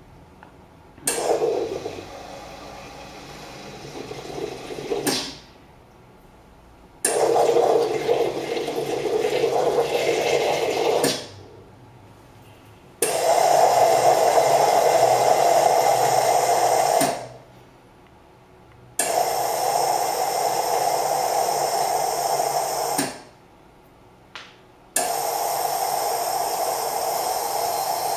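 Carimali Gusto automatic coffee machine's milk foaming device in its cleaning cycle, pumping cleaning solution up the milk hose and out of the milk outlet intermittently. It comes as five rushes of water and air, each about four seconds long, with short pauses of about two seconds between them.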